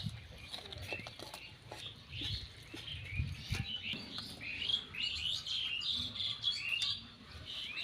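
Birds chirping: many short, quick chirps repeating throughout, with a few light knocks and a low rumble underneath.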